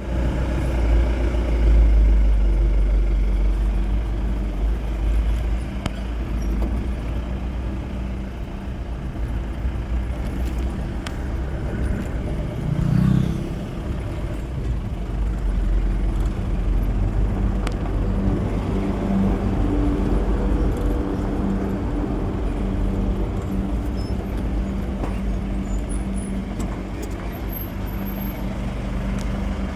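A motor vehicle running with a steady low rumble and hum, briefly louder about 13 seconds in.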